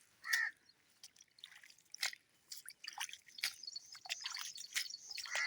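Water dripping and splashing in irregular drops and small plops as soil is watered by hand.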